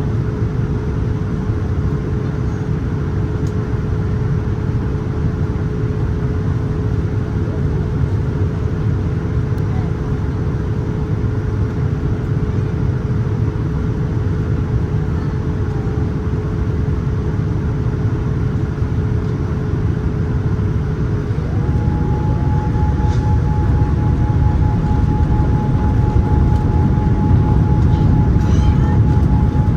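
Cabin noise of a Boeing 787-9 in flight: a steady roar of engines and airflow, with a steady whine that jumps to a higher pitch about two-thirds of the way through, as the roar grows a little louder.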